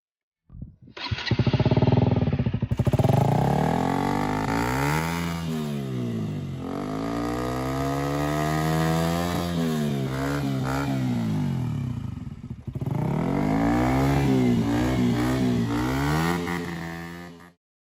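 KTM RC 125's single-cylinder four-stroke engine being revved again and again, its pitch rising and falling with each twist of the throttle. It stops abruptly near the end.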